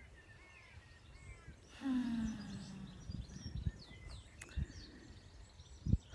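Small birds chirping and singing, with one sheep bleat about two seconds in, the loudest sound here. Wind gusts rumble on the microphone.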